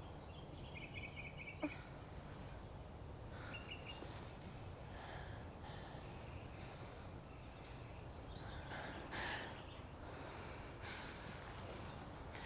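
Faint outdoor ambience: a steady low rumble with scattered short bird chirps, and a single sharp click about 1.7 seconds in.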